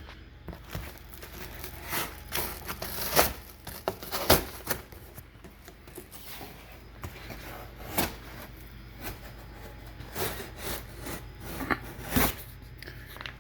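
A blade cutting down the side of a dishwasher's corrugated cardboard shipping box, with irregular scrapes, tearing and sharp knocks, the loudest about 3, 4, 8 and 12 seconds in.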